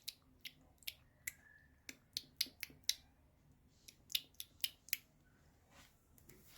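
A cat chewing and tearing at grass: a quick run of crisp, irregular clicks and crunches that thins out after about five seconds.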